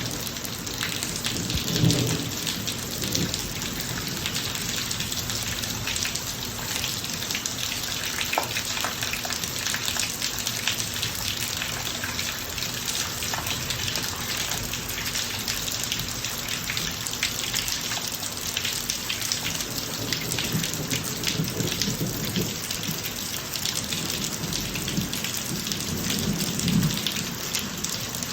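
Steady rain falling on a driveway, a dense hiss of drops. Low thunder rumbles briefly about two seconds in, then rolls again from about two-thirds of the way through, loudest near the end.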